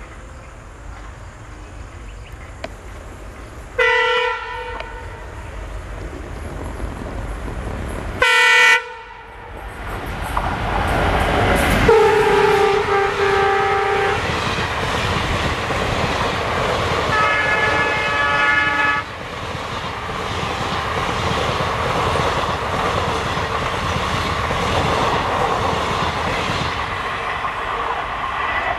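Indian Railways diesel locomotive horn blasting: two short blasts, then two longer ones of about two seconds each, one lower and one higher in pitch. Between and after them the passenger coaches run past with a steady rumble and wheel clatter on the rails.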